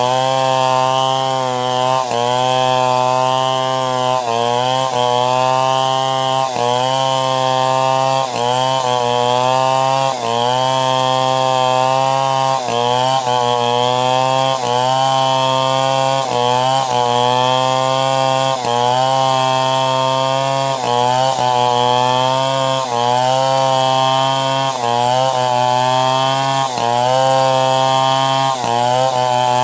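Two-stroke chainsaw running hard while ripping timber into boards, its engine pitch dipping briefly under load and recovering about every two seconds.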